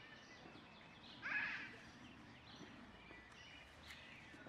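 Birds calling and chirping in the background, with one louder call about a second in.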